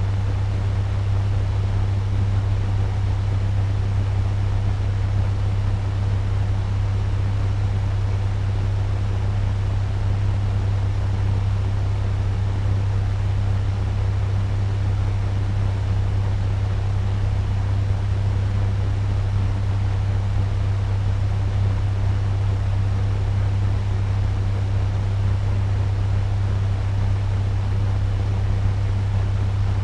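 Turbo fan running steadily at medium speed: an even rush of air over a strong low hum, unchanging throughout.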